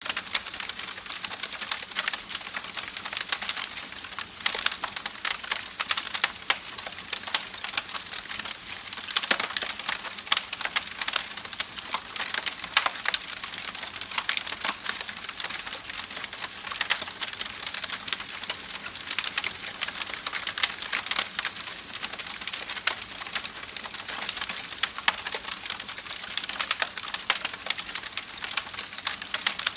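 Campfire crackling: a dense, steady stream of small pops and snaps from burning wood over a constant hiss.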